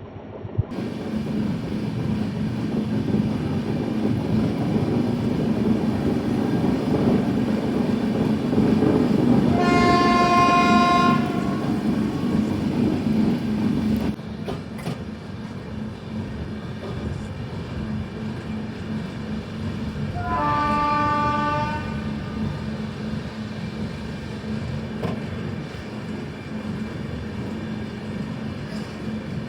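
Passenger train running along the track with a steady rumble that drops noticeably about fourteen seconds in. A train horn sounds twice, each blast about a second and a half long, about ten and twenty seconds in.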